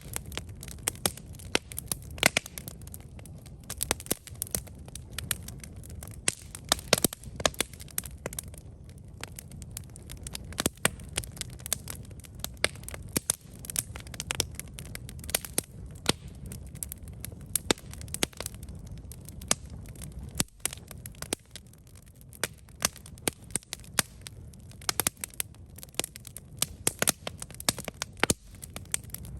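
Wood campfire burning, crackling and popping irregularly over a steady low rumble of the flames.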